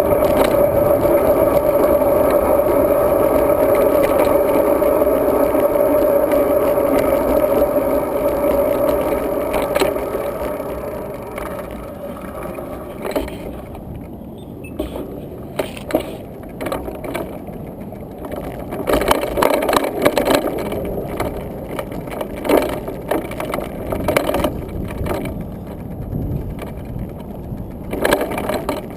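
Riding noise of a road bike picked up by a GoPro mounted on the rider: a steady rushing of wind and tyres with a hum, which fades about ten seconds in. After that, irregular knocks and rattles, as over bumps in the path.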